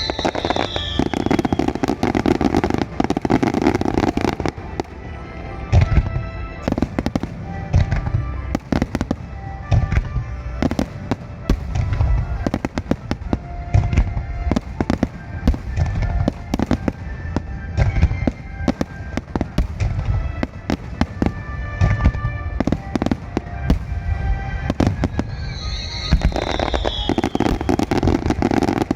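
A dense barrage of aerial fireworks shells bursting in quick, irregular succession, booms and crackles piling on top of one another: a grand-finale volley.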